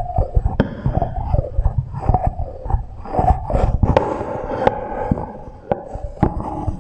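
Close-miked ASMR trigger sounds: quick irregular clicks, taps and soft thumps, run through an echo effect that makes each one linger.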